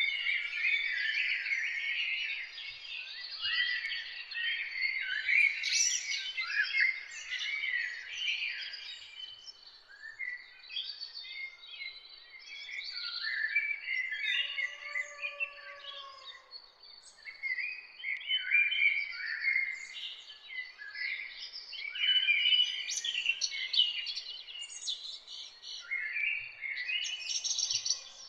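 Dawn-chorus-style mix of many songbirds singing and chirping at once, dense and overlapping, thinning out around the middle. About halfway through, a single lower, arching drawn-out call sounds beneath the chirps.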